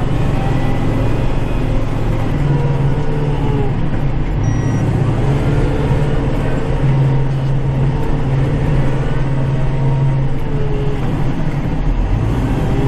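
Kubota tractor's diesel engine running steadily while plowing snow, heard from inside the cab, its pitch drifting slightly up and down as the load changes.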